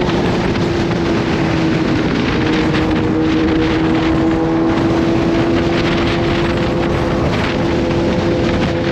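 Kawasaki Z H2's supercharged inline-four engine running at a steady cruise, its tone easing slightly lower over the first few seconds, with wind rushing over the microphone.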